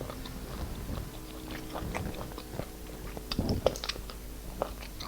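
Close-mic eating sounds: chewing with irregular wet smacks and mouth clicks, a louder cluster of smacks about three and a half seconds in.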